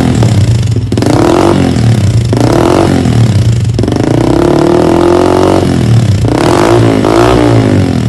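Motorcycle engine revving through a replica Akrapovic titanium slip-on exhaust: a run of throttle blips whose pitch rises and falls, with one longer rev held a little past the middle, never revved hard.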